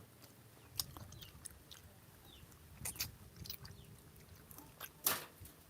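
Someone chewing rambutan flesh: soft, wet mouth clicks and smacks, with one louder click near the end.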